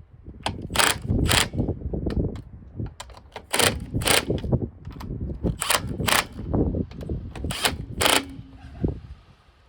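Irregular sharp metallic knocks and clanks, about a dozen spread over several seconds, with low rumbling in between: tools working on truck brake parts.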